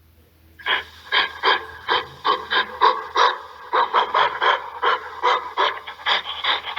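Gorilla vocalizing: a rapid series of short, noisy grunts, about three a second, starting just under a second in.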